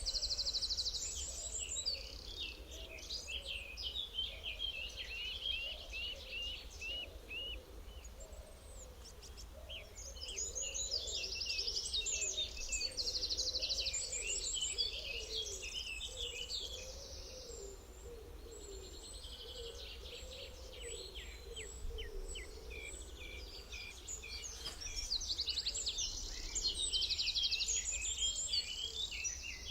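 Several birds singing and calling together: quick repeated chirps and rapid trills that come in bursts, loudest near the start, in the middle and near the end, over a steady low background rumble.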